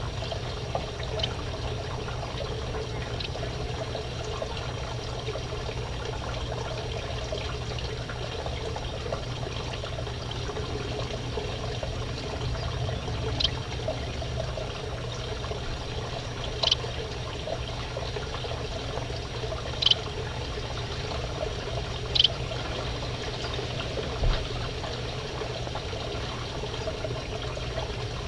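Finches in an aviary giving a handful of short, high chirps a few seconds apart over a steady trickling background noise.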